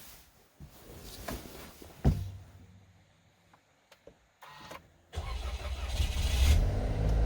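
A car door shuts with a solid thud, and about three seconds later the car's engine starts and settles into a steady low idle.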